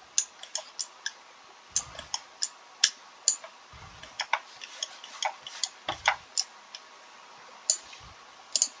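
A run of irregular, sharp clicks and light taps, a few landing with a soft thud, like small hard objects being handled and set down or a mouse being clicked.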